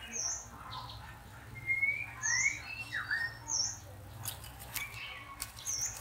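Songbird calls: a short high chirp repeated every second or two, with a few slurred whistled notes sliding up or down between them. Light clicks and rustles come in about two thirds of the way in.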